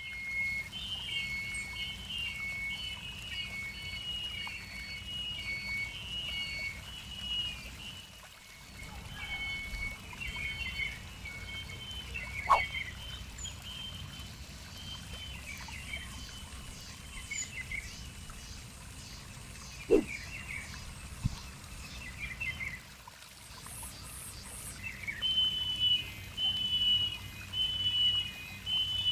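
A songbird singing, repeating quick runs of two alternating high notes. It pauses around the middle, where a few single sharp calls come in, and starts again near the end, over a steady background hiss.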